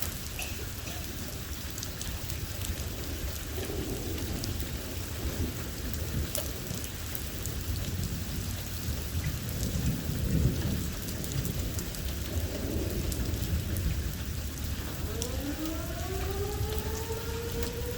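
Heavy rain falling during a severe thunderstorm, with scattered sharp drop impacts and rolling thunder rumbling low, loudest about halfway through. Near the end a pitched tone rises and then holds steady.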